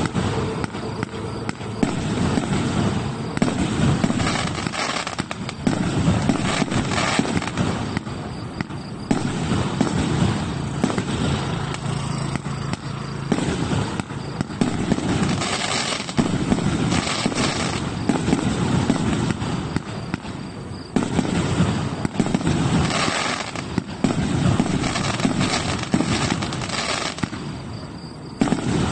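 A 100-shot, 1.5-inch firework cake firing: a rapid, unbroken run of shot launches and shell bursts, with a few brief lulls.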